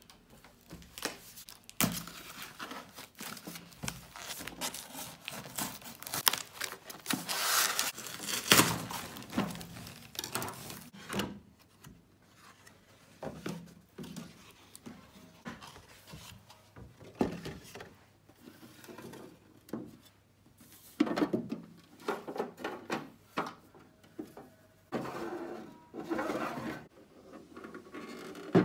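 Small objects handled at close range: crinkling and rustling, as of packaging or paper, broken by light clicks and knocks, with a few short pauses.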